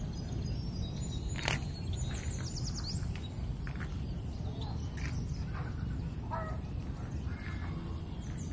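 Outdoor rural ambience: birds chirping here and there over a steady low background rumble, with one sharp click about a second and a half in.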